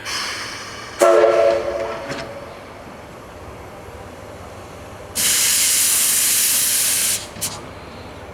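Locomotives at rest: a short whistle blast about a second in, then about two seconds of loud hissing release that cuts off sharply, followed by a brief second hiss.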